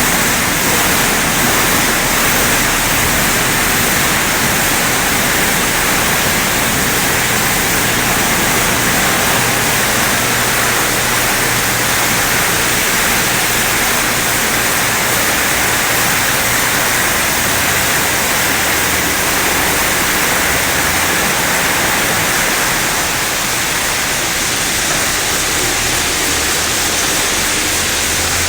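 Storm touch-free automatic car wash running: a steady, loud rush of high-pressure water spray, with a low machine hum underneath.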